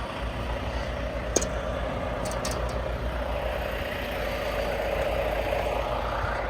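Semi truck's diesel engine running steadily at low speed, with a few short clicks about a second and a half and two and a half seconds in.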